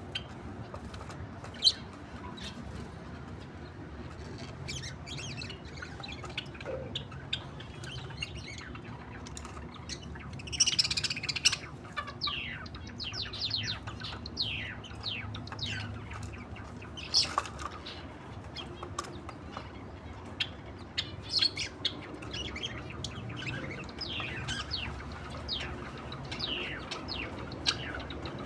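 A pair of budgerigars chirping and chattering in many short, quick, high calls, sparse at first and busier from about ten seconds in.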